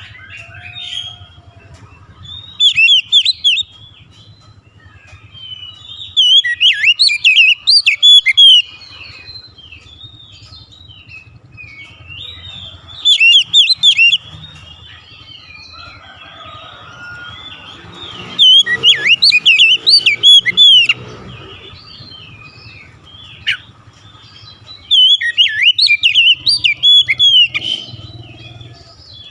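Oriental magpie-robin (kacer) singing: five loud phrases of rapid, sweeping whistles and trills, each one to three seconds long, with quieter twittering between them.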